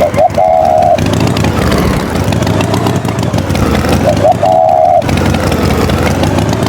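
Tractor engine sound effect running steadily, with a short, high double tone near the start and again a little past the middle.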